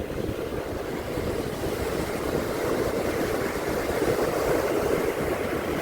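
Ocean surf washing onto a beach, a steady rushing that swells gradually louder, with wind buffeting the microphone as a low rumble.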